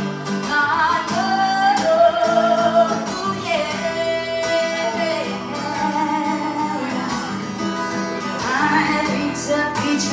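A woman singing over guitar accompaniment, with a long held note midway.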